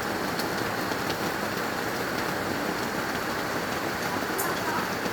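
Heavy rain falling steadily, with a few scattered drops ticking on a surface.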